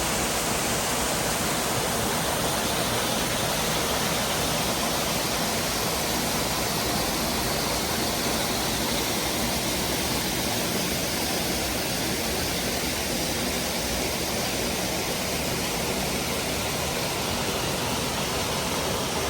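Mountain river tumbling down a waterfall into rock pools: a steady, unbroken rush of water.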